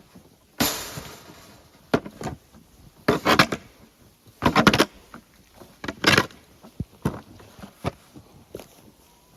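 Snow shovel scooping and scraping through light, fluffy snow: about seven separate strokes, spaced unevenly every second or so, the first a longer scrape.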